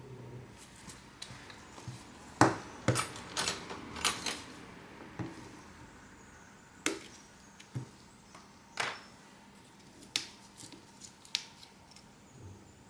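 Irregular sharp clicks and taps of small hand tools and parts being handled and set down during a smartphone repair, a cluster of them a couple of seconds in, then single taps every second or two.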